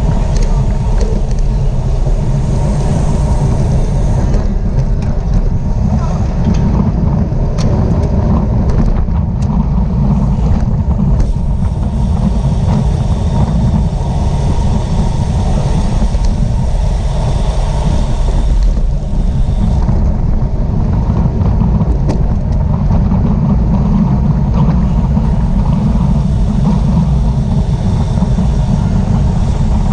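Steady, loud wind noise buffeting the microphone, with a few faint ticks scattered through it.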